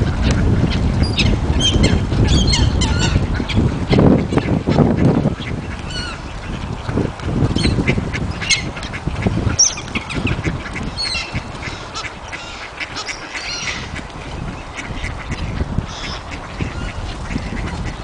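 A flock of birds calling, many short high calls overlapping throughout, over a low steady rumble that fades after about six seconds.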